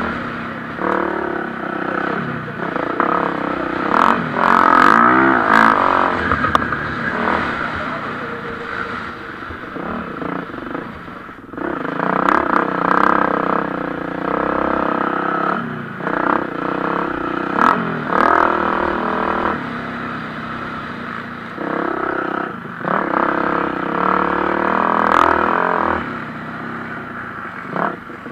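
Motocross bike engines racing on a dirt track, revving up and falling back over and over as riders work the throttle, with louder swells every few seconds as bikes come through.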